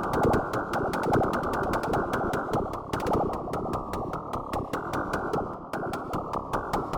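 Nord Drum 3P electronic drum synthesizer playing a fast rhythm pattern on a dense, buzzing preset kit. A thick low drone sinks slowly in pitch and restarts every second or so, under rapid, sharp, clicking ticks.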